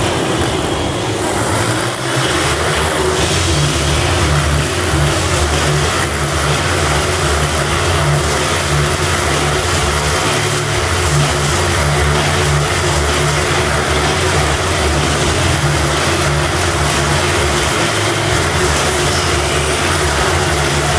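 Several sport motorcycle engines running hard together as the bikes circle inside a steel globe, a continuous dense engine noise with a low note that wavers up and down.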